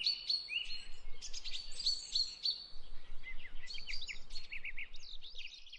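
Small birds chirping and singing in a steady stream of quick, high notes and trills, fading out near the end.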